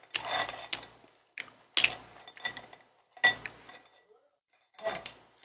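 Cutlery and dishes clinking and knocking at a meal table, in a series of short separate clatters with a pause about four seconds in.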